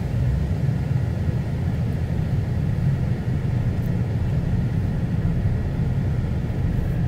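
Vehicle driving along a forestry road: a steady low rumble of engine and tyres.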